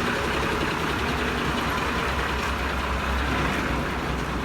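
Heavy machine engine running steadily with a low rumble.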